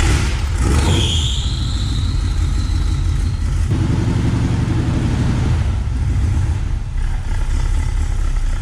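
Jeep CJ-7 engine firing up on a choked cold start after sitting about a year and a half, then running steadily with a loud low rumble. A high squeal sounds about a second in and fades after a couple of seconds.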